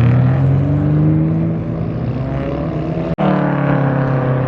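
Modified cars' engines running at low revs as they drive off, the engine note rising slowly. The sound drops out for an instant about three seconds in.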